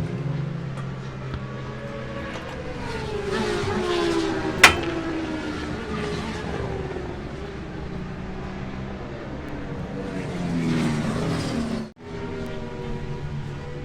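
Classic superbike racing motorcycle engines running, one engine's pitch sliding down as a bike goes by. There is one sharp crack about four and a half seconds in, and the engine sound swells again before breaking off abruptly near the end.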